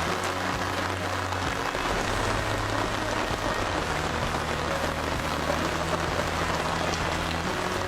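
Heavy rain falling steadily, a dense even hiss, with low sustained tones underneath.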